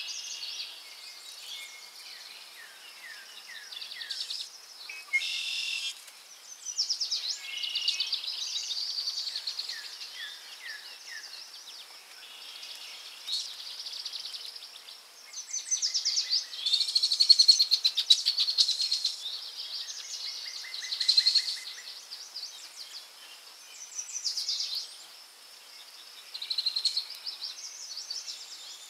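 Forest birdsong: several songbirds singing at once, overlapping high chirps, rapid trills and short repeated notes, with the loudest burst about two-thirds of the way through.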